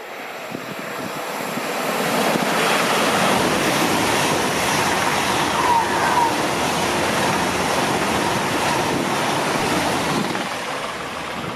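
Deutsche Bahn ICE high-speed train passing through at speed without stopping: a loud rush of wheels on rail and air that builds over the first two seconds, holds steady, then eases off near the end.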